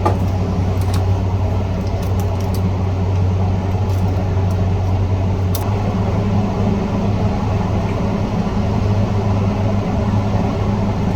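Steady low machine hum with an even fan-like rush, unchanging throughout, with a few faint light ticks.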